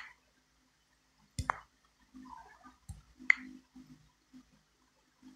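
Handling noise from a camera or phone being fiddled with: sharp clicks and knocks, a dull knock followed by a higher click, twice, about a second and a half apart.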